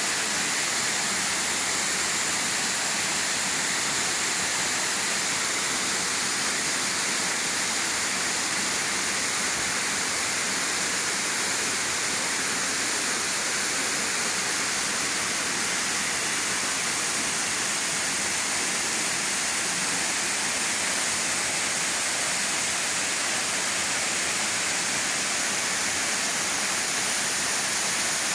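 Steady, unbroken rush of falling water, a hiss strongest in the upper range.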